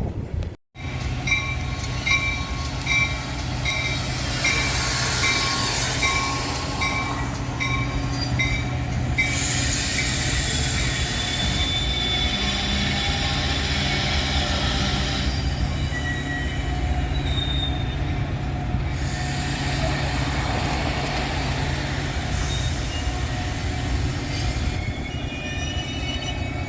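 A train rolling past with a steady low rumble and intermittent high-pitched wheel squeal. For the first several seconds a bell-like ding repeats about twice a second.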